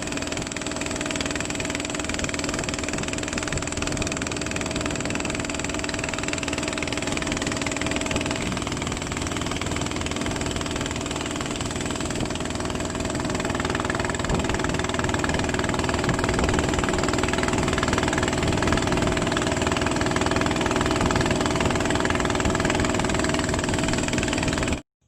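Small fishing boat's engine running steadily under way, getting a little louder about halfway through and cutting off abruptly near the end.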